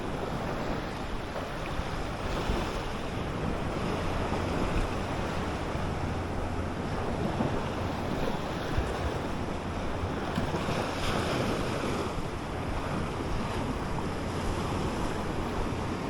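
Surf washing on the shore, with wind buffeting the microphone as a low rumble.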